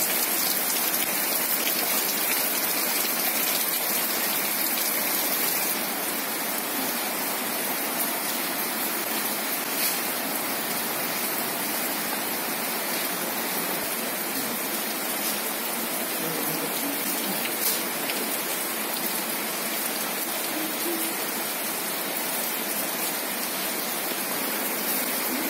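Steady rain falling, an even hiss that is slightly quieter from about six seconds in, with a couple of faint taps.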